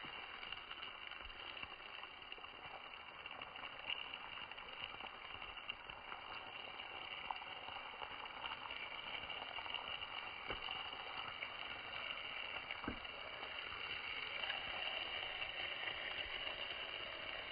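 Pork and kimchi cooking in a pan over a campfire: a steady sizzle, with a few sharp pops.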